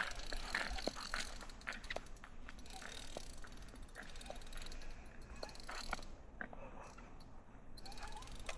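Faint, scattered small clicks and light knocks, at no steady rhythm.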